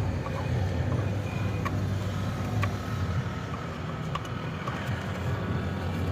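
An engine running steadily at idle, a low even hum, with a few light clicks scattered through it.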